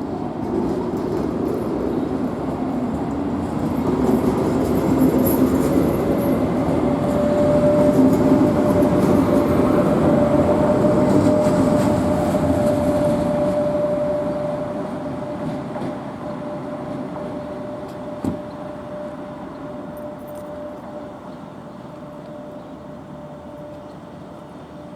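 NSB Class 69 electric multiple unit pulling out of a station. Its running rumble swells and then fades as the train draws away, while a motor whine rises in pitch and then holds steady.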